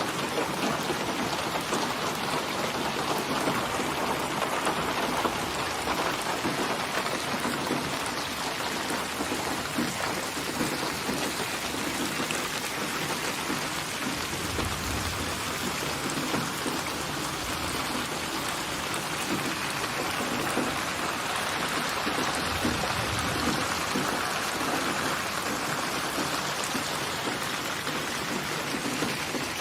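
Steady rain falling and pattering on surfaces, with two short low rumbles, one about halfway through and one about two-thirds through.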